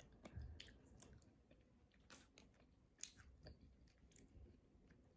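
Faint close-up chewing of oysters, with soft clicks scattered through.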